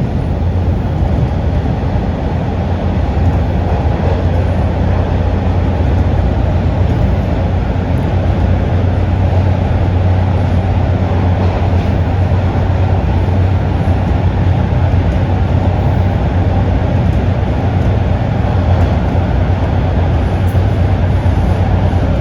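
Toronto TTC Line 2 subway train running between stations, heard from inside the car: a steady, loud rumble with a low hum that doesn't change.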